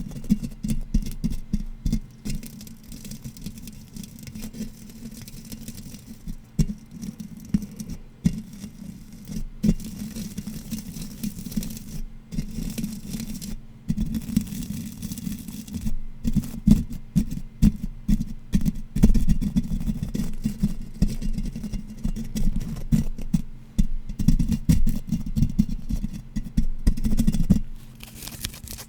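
Fast, irregular tapping and scratching on an unidentified object, a dense stream of taps with louder clusters. Just before the end it changes to lighter, crisper ticks.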